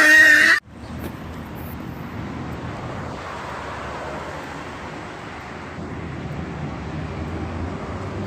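A brief loud pitched sound cuts off just over half a second in, followed by a steady low rumbling noise.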